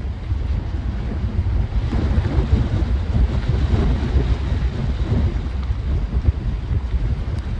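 Strong storm wind buffeting the microphone over the noise of surf. A rush of noise swells about two seconds in and eases off after a few seconds.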